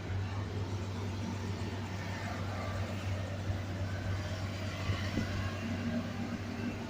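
Dump truck's diesel engine running steadily: a constant low drone with a haze of noise over it.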